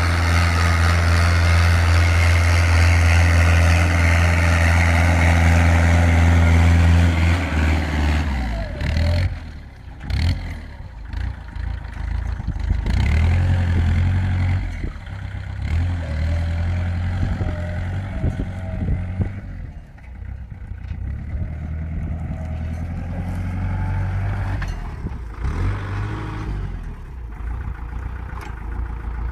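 Mini tractor engine running. It holds steady for about the first eight seconds, then drops and rises in speed and loudness, with a few short knocks.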